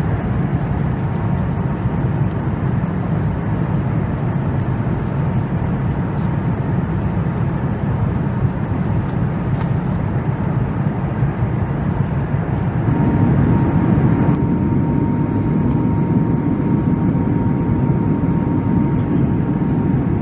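Steady cabin noise inside a Boeing 737 MAX 8 airliner, a continuous low rush. About thirteen seconds in the low rumble grows louder and a faint steady tone rises over it, lasting almost to the end.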